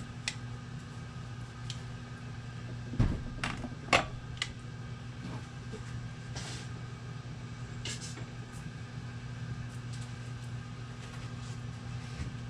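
A few sharp metal clinks and knocks, then two short scrapes, as a small chainsaw's bar and chain are handled and fitted back on, over a steady low hum.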